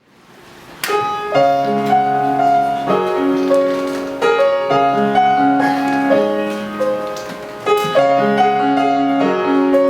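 Piano playing the introduction of a song: sustained chords with a melody over them at an unhurried pace, beginning about a second in.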